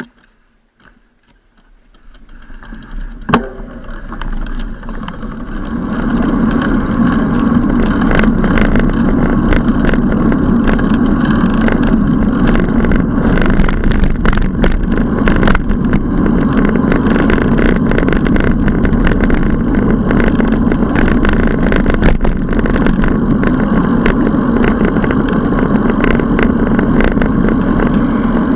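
Steady rushing and rattling noise of a bicycle being ridden, building up over the first few seconds and then holding level, with frequent small clicks and knocks.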